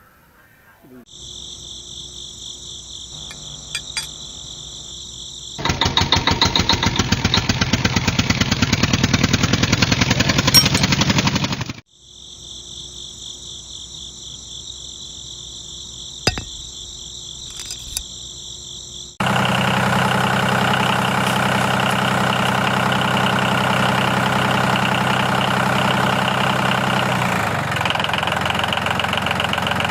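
Small electric motor whining at high speed, broken by a louder rasping stretch that stops suddenly. Later comes a steady, pulsing engine-like drone.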